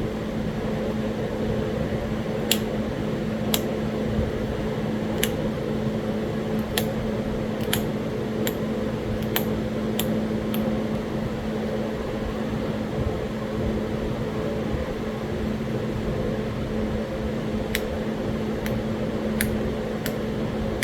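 Sharp, irregular clicks of small flakes snapping off a Talahata quartzite point as it is pressure-flaked with a copper-tipped flaker, in two bunches of several clicks each, over a steady hum.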